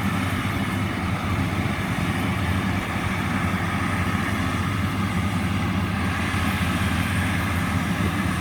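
Diesel engine of a rice combine harvester running steadily under load, a constant low hum with a mechanical rattle over it.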